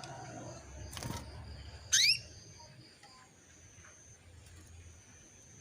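Female canary giving one short, upswept call about two seconds in: the call used to lure a male canary into song. A brief click comes about a second in.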